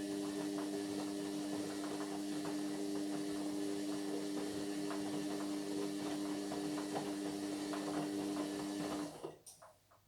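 Indesit MyTime washing machine running mid-cycle: a steady motor hum with light clicks and rattles, which cuts out about nine seconds in.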